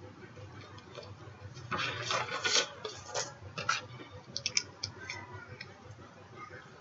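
Scratchy rubbing and sliding of card stock for about a second, then a few light taps and clicks, as excess embossing powder is shaken and tapped off a stamped card.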